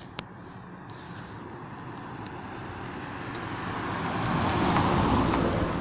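A passing car: road noise of engine and tyres growing steadily louder over several seconds as it approaches, loudest near the end.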